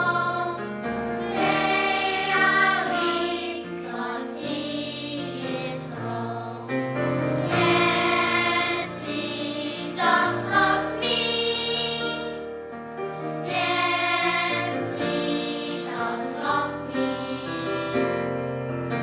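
Church choir singing a sacred choral piece in sustained phrases that swell and fall back.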